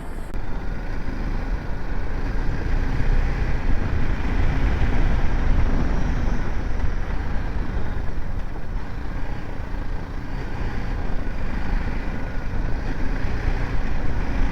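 BMW G 310 GS motorcycle under way, its single-cylinder engine running steadily with road noise.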